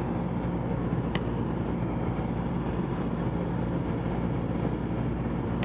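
Cessna 172's piston engine and propeller droning steadily, heard inside the cabin in flight in the landing pattern. A short click about a second in.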